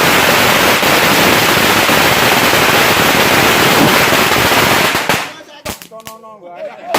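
A string of firecrackers going off in a rapid, continuous crackle that stops suddenly about five seconds in. Voices follow near the end, with one or two last sharp pops.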